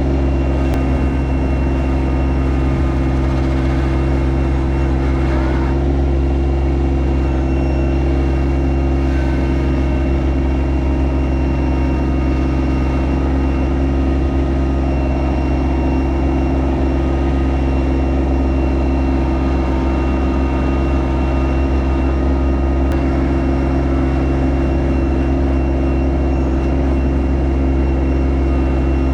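Yanmar SA324 compact tractor's three-cylinder diesel engine running at a steady speed, its pitch held constant with no revving.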